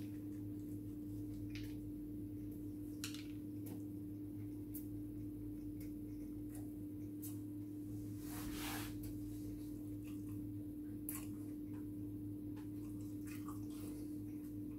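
Close-up eating sounds as a chicken burger is bitten into and chewed: scattered wet mouth clicks and smacks, with one longer breathy noise about eight and a half seconds in. A steady low electrical hum runs underneath throughout.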